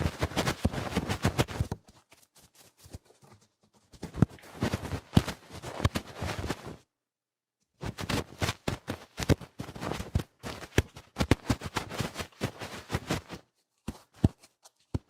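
ASMR ear cleaning: fast, rough scratching and scraping at the ear, a dense run of crackling strokes. It eases off a couple of seconds in, stops for about a second in the middle, then resumes densely and thins out near the end.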